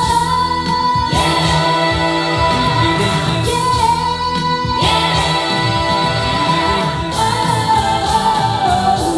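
Live vocal group singing over music with a steady low beat: a stretch of a rock-song medley without clear lyrics.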